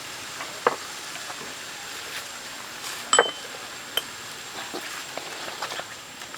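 A few sharp clinks and knocks over a steady hiss; the loudest, just after three seconds in, has a brief metallic ring.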